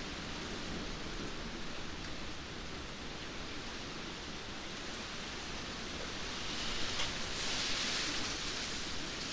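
Steady rain falling, an even hiss of many drops, growing a little louder and hissier about seven seconds in.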